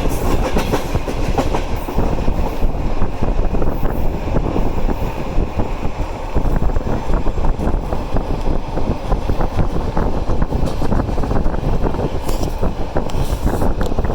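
Passenger train under way: a steady rumble of the carriages with a continuous clatter of wheels over the rails.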